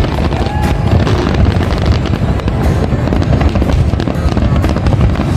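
Fireworks going off in rapid succession, a dense run of cracks and crackles over a low rumble of bangs, with music playing along.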